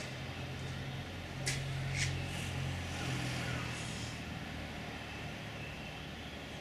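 Distant train running, a low steady hum that eases off after about four seconds, with two sharp clacks about a second and a half and two seconds in.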